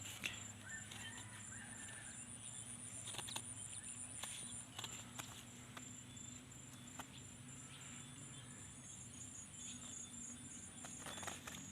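Faint outdoor ambience: a steady, high-pitched insect trill runs throughout, with a few scattered light clicks and taps and a low hum underneath.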